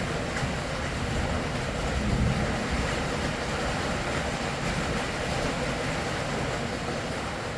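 Steady rain falling, a continuous even hiss with a low, shifting rumble underneath.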